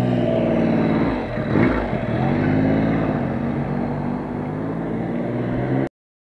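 Honda CB500S parallel-twin motorcycle engine running at low speed under way; its note dips briefly a little over a second in and then picks up again. The sound cuts off suddenly near the end.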